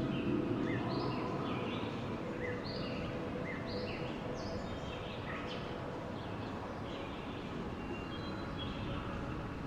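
Steady wind noise, easing slightly after the first couple of seconds, with many birds chirping throughout in short, repeated high calls.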